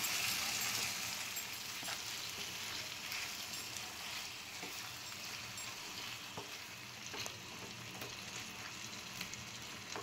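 Raw chicken gizzards sizzling in hot masala in a frying pan as a wooden spatula stirs them in, with a few soft taps and scrapes of the spatula on the pan. The sizzle is loudest at first and eases off as the cold meat is mixed through.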